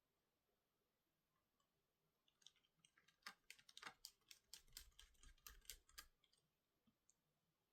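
Faint, quick clicking and tapping on a laptop, a run of many small clicks starting about two seconds in and stopping about two seconds before the end.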